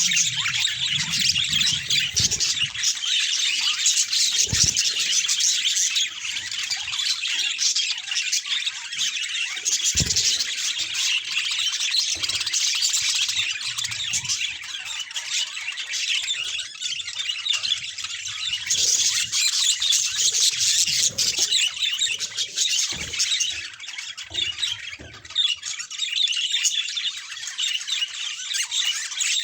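Budgerigars chattering: dense, continuous chirping and squawking from several birds at once, with a couple of brief low thumps.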